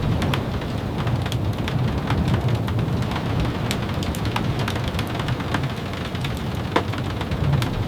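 Steady rain with many scattered sharp drips and ticks, over a low continuous rumble.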